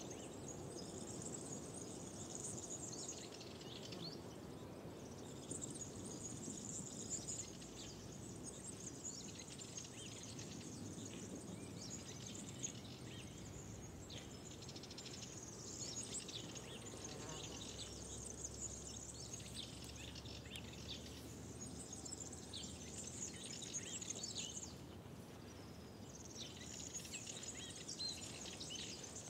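Outdoor spring ambience: small birds singing and chirping in repeated high-pitched passages, with short pauses, over a steady low background noise.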